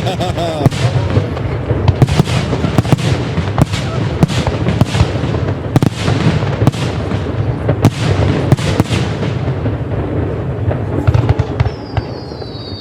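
Aerial fireworks display: a rapid, continuous barrage of shell bursts and bangs with crackle between them, thinning out near the end as a falling whistle begins.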